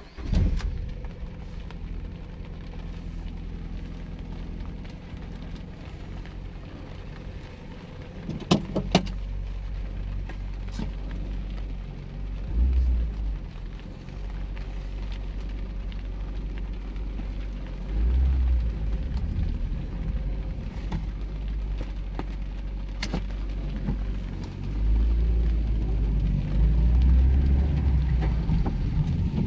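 Mazda MX-5 1.8's four-cylinder engine starting and settling into a steady idle, with a short burst of sharp clicks about eight seconds in. The engine then swells louder several times as the car pulls away and drives.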